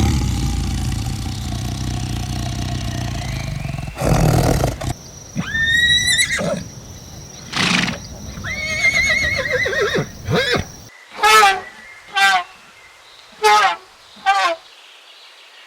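A horse whinnying: a rising call, then a long quavering whinny, after a few seconds of steady low rumbling noise. Four short calls follow near the end.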